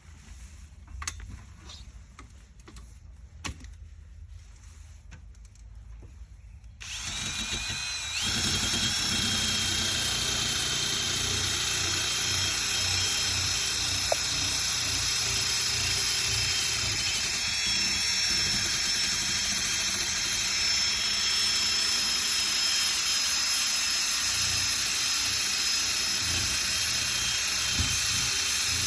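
A few light knocks, then about seven seconds in an electric power sander starts, its whine rising for about a second, and it runs steadily with a high whine as it sands old paint down on a car hood.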